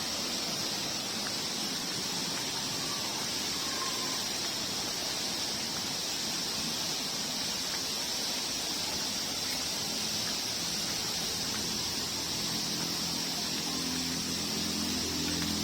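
Steady rushing of a tall waterfall, an even noise that holds the same level throughout. About two-thirds of the way through, the low hum of a vehicle engine grows in underneath.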